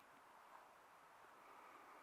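Near silence: a faint steady hiss of background noise with one tiny tick.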